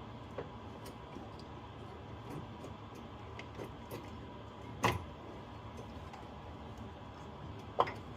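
Scattered light clicks and taps over a faint steady hum, with two sharper knocks, one about five seconds in and one near the end.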